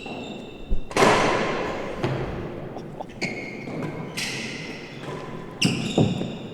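Real tennis rally: a heavy real tennis ball is struck by rackets and knocks off the court's walls and floor in a run of sharp impacts, the loudest about a second in and near the end, each echoing in the enclosed stone-walled court.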